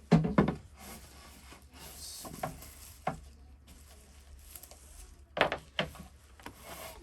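Sandpaper and tools being handled against a snowboard: several separate knocks and thumps, the loudest at the start, with a few short, faint scraping rubs between them.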